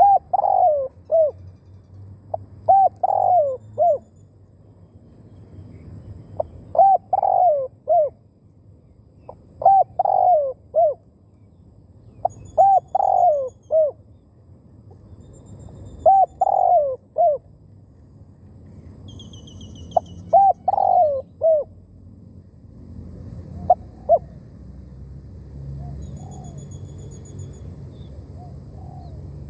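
Spotted dove cooing: about seven short phrases of a few notes each, one every three seconds or so, then two brief notes near the end. Faint high chirps of other small birds behind.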